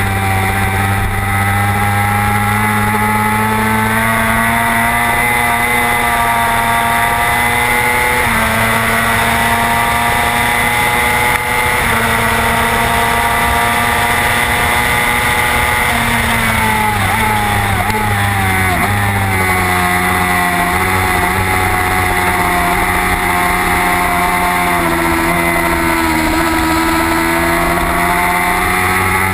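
Racing motorcycle engine heard from onboard at high revs, its pitch falling steeply through downshifts and braking about two-thirds of the way in, then climbing again as the bike accelerates.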